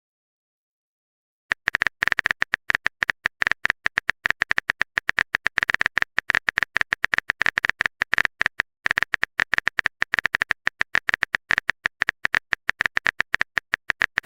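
Typing sound effect: a fast, uneven patter of keyboard clicks that starts about a second and a half in, pauses briefly past the middle, then goes on again.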